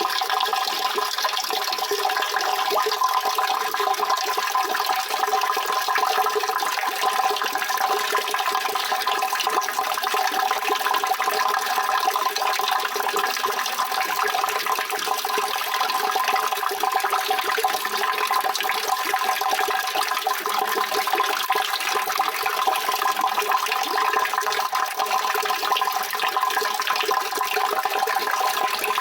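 Steady, continuous rushing of running water, even in level throughout.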